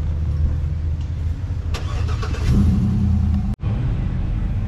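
Old car's engine running with a steady low rumble, rising in pitch about two and a half seconds in as it is revved a little, with a short noisy rush just before; the sound cuts out for an instant near the end.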